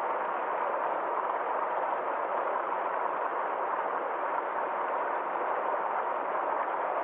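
Small forest stream or little waterfall flowing, a steady even rush of water.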